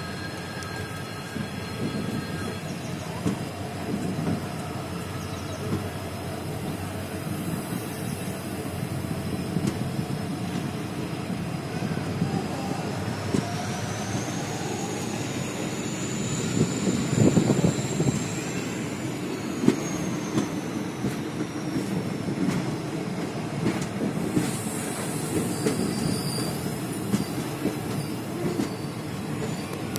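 Train rolling past on the tracks: steady wheel rumble and clatter, with a high whine that rises in the middle and then slowly falls away.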